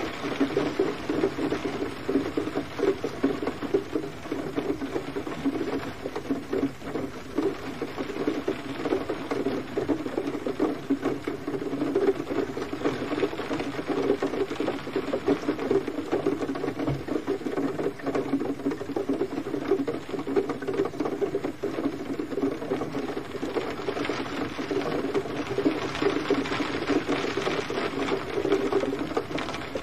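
Steady gentle rain, a dense patter of many small drops with no pause.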